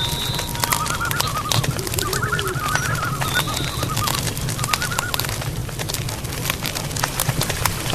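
Night forest ambience: birds calling in runs of quick wavering notes, with a short high thin whistle at the start and again about three seconds in. Underneath are a steady low rumble and many scattered clicks and crackles.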